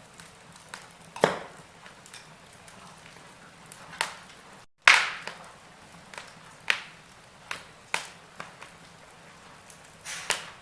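Wood fire crackling: sharp pops and snaps every second or so over a faint hiss, the loudest about five seconds in, just after the sound cuts out for a split second.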